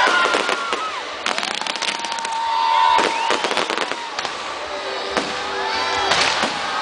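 Fireworks going off: clusters of rapid crackling and popping with sharp bangs, the loudest about three seconds in. Thin whistling tones hold and then drop away in pitch between the bursts.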